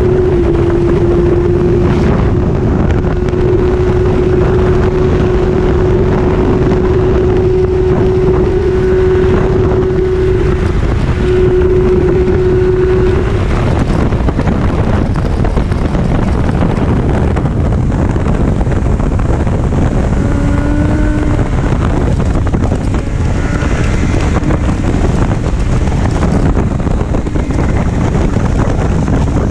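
Motorcycle engine running under way with heavy wind noise on the microphone. The engine note holds steady and climbs slowly for about the first thirteen seconds, then sinks under the wind, with brief shifts in pitch about twenty seconds in.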